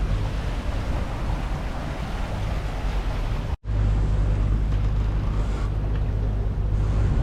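Sailboat under way, with a steady low drone under a rush of wind and water. The sound drops out for an instant a little past halfway, and afterwards the drone is louder.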